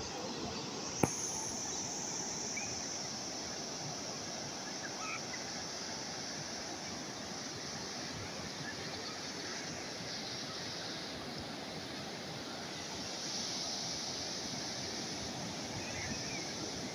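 Calm sea waves washing steadily on the shore, swelling slightly louder about two-thirds of the way through. A single sharp click about a second in.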